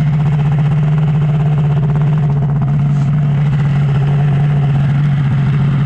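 Two-stroke triple-cylinder snowmobile engine idling steadily.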